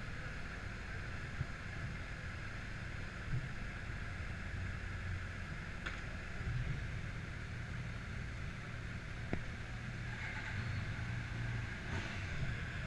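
Steady highway vehicle noise: a low rumble with an even hiss above it and a few faint ticks.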